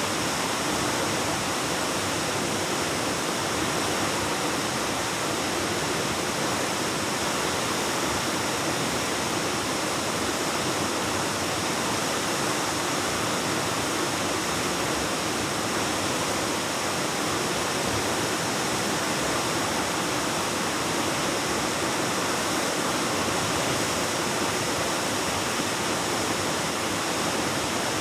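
A waterfall: water pouring steadily and rushing, with an even roar that echoes through the cave.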